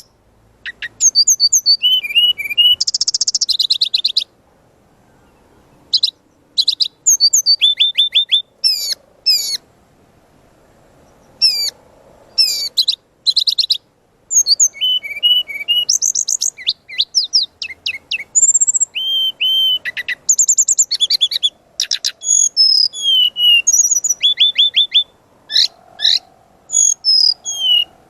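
Brown-chested jungle flycatcher (SRDC) singing a loud, varied song of quick whistled and chirping phrases, many notes sweeping up or down in pitch. The runs come in bursts separated by brief pauses of a second or two.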